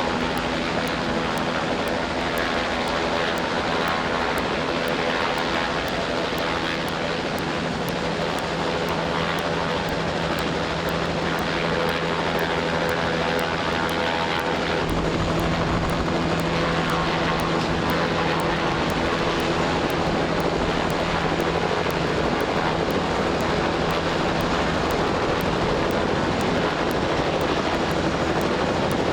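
A steady engine drone over a loud rushing noise, the low rumble growing heavier about halfway through.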